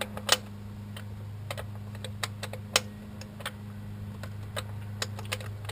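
Irregular sharp clicks, about two a second, from a stubby ratchet being worked in short strokes, over a steady low electrical hum.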